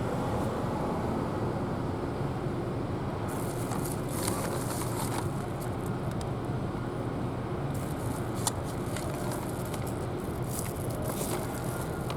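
Steady low rumble of outdoor background noise, with patches of crackling clicks about three seconds in and again from about eight seconds on.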